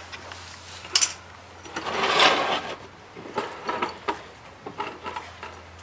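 Hand tools and metal parts clicking and rattling during work on a car's turbo and coolant lines, with a louder rasping scrape about two seconds in.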